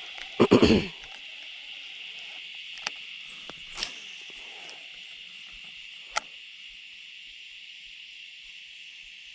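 Steady high-pitched insect chorus at dusk, an even buzzing hiss. A short, loud low sound about half a second in, and a few sharp clicks later on.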